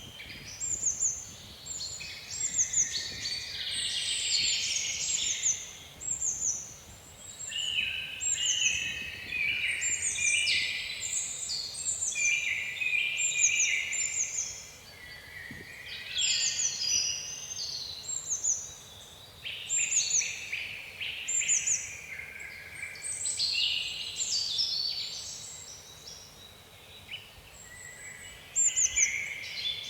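A chorus of several songbirds calling and singing at once: rapid chirps and many short, falling whistles that come and go in waves. Beneath them is a faint, steady rush of wind over water.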